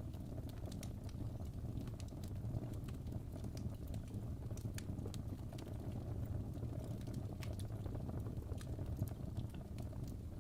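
Fire crackling in a fireplace: a steady low rush of flames with scattered, irregular sharp crackles and pops.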